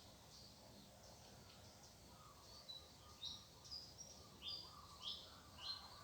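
A bird chirping repeatedly in short, high notes, about two a second, starting about halfway through, over faint outdoor background noise.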